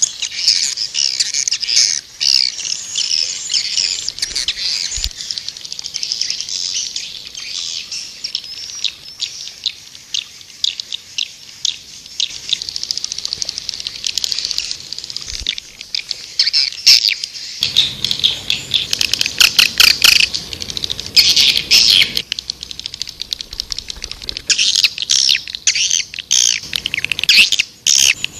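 Recorded swiftlet calls: a dense, unbroken chatter of rapid high chirps and clicking trills. This is a calling track of the kind played to lure swiftlets into a nesting house.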